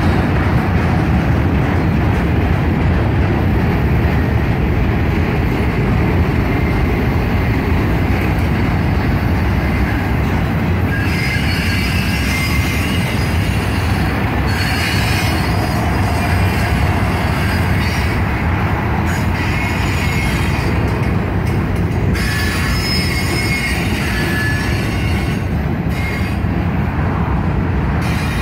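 Loaded flatcars of a freight ingot train rolling past: a steady rumble of steel wheels on rail. From a little before halfway on, high-pitched wheel squeal comes and goes.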